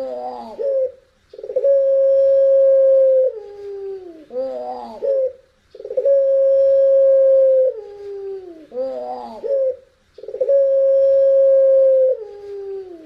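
Puter pelung dove cooing, a long howl-like call: a drawn-out note held steady for about two seconds, then dropping in pitch and ending in a short warbling flourish. The phrase repeats about every four and a half seconds, three times.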